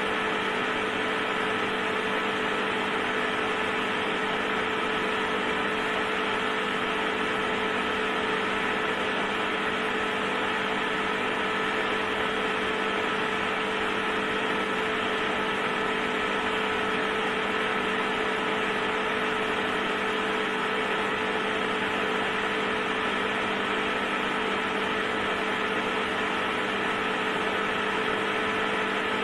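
Electric heater running: a steady hum with an even whirring hiss that does not change.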